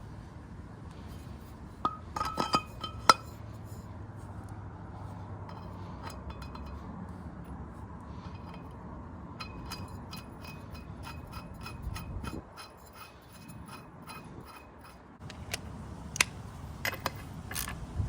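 Metal clinks and scrapes of a propeller and its hardware being fitted back onto a Yamaha four-stroke outboard's shaft: a few sharp clanks about two to three seconds in, then a long run of light clicks and taps.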